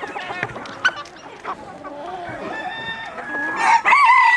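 Chickens clucking with scattered short calls, then a loud drawn-out call near the end.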